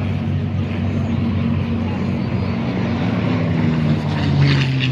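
P-51 Mustang's piston V-12 running loud and steady as the fighter flies past, its pitch dropping slightly near the end.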